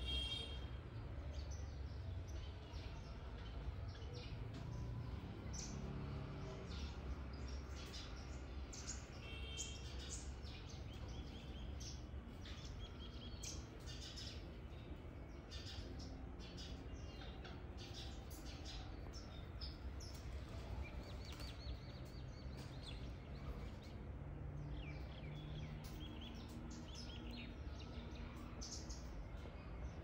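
Birds chirping, many short high calls scattered throughout, over a low steady background hum.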